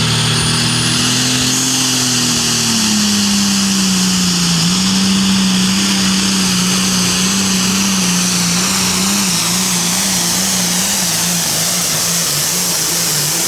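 Pulling tractor's turbocharged diesel engine at full throttle, dragging the sled down the track under load. The engine note sags a few seconds in, then holds steady with a slight waver under a heavy hiss.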